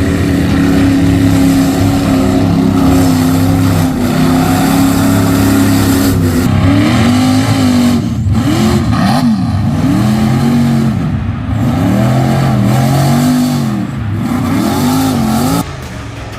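Mud truck engine held at high revs, then revving up and down over and over, about once a second, before cutting off sharply near the end.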